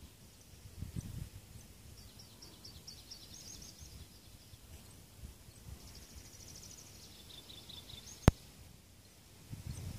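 Small birds singing two quick trilled phrases of high repeated notes, over a faint low rumble. About eight seconds in there is a single sharp click, the loudest sound.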